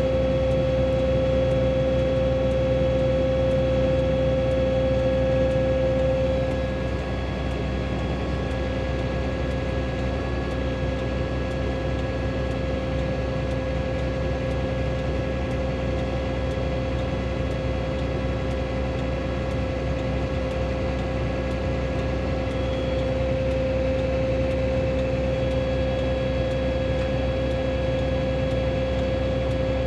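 2005 John Deere tractor running steadily while its hydraulics swing out the sprayer booms, with a steady whine over the engine hum. The whine eases about six seconds in and comes back in the last quarter.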